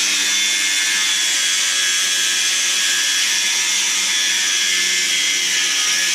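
Handheld power tool motor running steadily at high speed, with a continuous high whine over a hiss of cutting noise.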